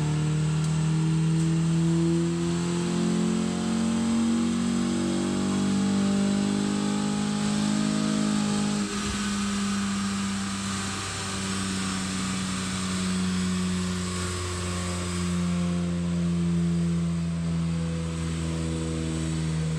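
Honda Civic 1.8-litre R18 four-cylinder engine, breathing through an aftermarket intake and Megan Racing exhaust, on a chassis dyno for a baseline power run: it revs steadily upward under load for about nine seconds, then drops back suddenly when the throttle comes off and runs on at a steady lower speed.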